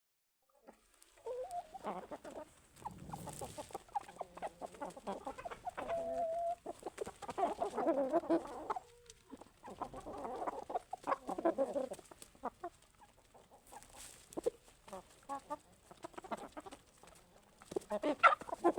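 Asil chickens clucking, with short calls coming and going in irregular runs, mixed with sharp clicks.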